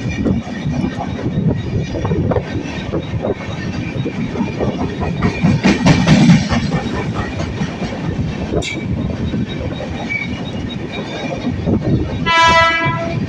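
Mumbai LTT–Madurai Express passenger train running on the track, with steady rumbling wheel clatter that swells about six seconds in. A short horn blast sounds near the end.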